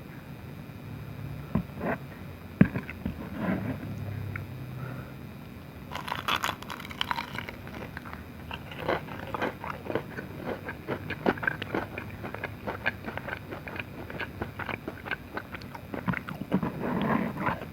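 Close-miked biting and chewing of dim sum: a few sharp bites at first, then a dense run of wet mouth clicks and crunches from about six seconds in.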